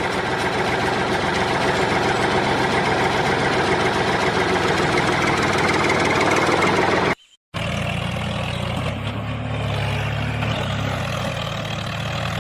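A motor running steadily with a dense buzz. It cuts out to silence for a moment about seven seconds in, then runs on.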